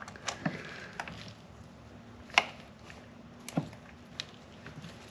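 Hand tools working on engine hardware: a handful of irregular sharp clicks and knocks of metal, the loudest a little before the middle, over a faint steady hum.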